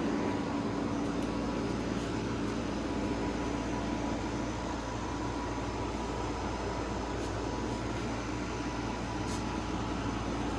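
Grelife 8,000 BTU portable air conditioner running in cool mode on high fan speed: a steady rush of air with a low hum from the unit.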